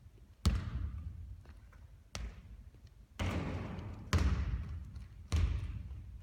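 A basketball bouncing hard on a court about six times, each bounce a sharp thud followed by a ringing echo that dies away.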